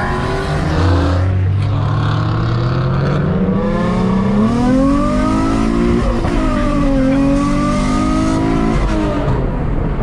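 A car engine revving hard: its pitch climbs steadily for about four seconds, then drops and climbs again twice before falling away near the end.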